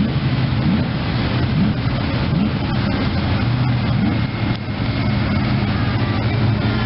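Engines of cars cruising slowly past at low speed, a lowered compact pickup truck driving by close. A steady low engine hum with a few brief rises in engine pitch as the throttle is eased on.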